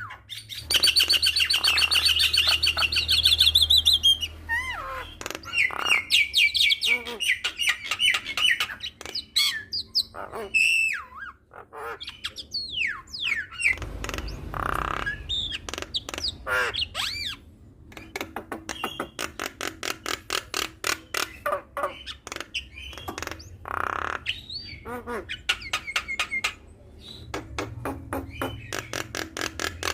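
Javan myna singing a long, varied song: chattering squawks, short whistles that slide up and down, and rapid runs of clicking notes.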